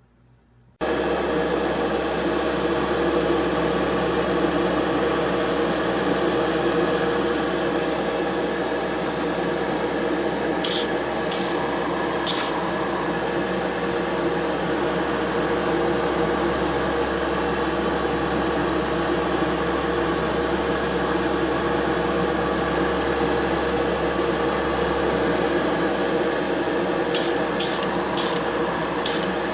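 A small motor runs with a steady hum, starting abruptly just under a second in, as paint is sprayed on a toy car body. Short hisses of spray come three times about a third of the way in and four times near the end.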